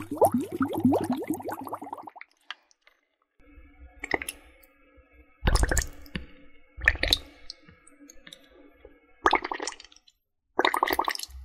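Water sounds: a quick run of bubbling gurgles for about two seconds, then a pause and about five separate short watery bursts.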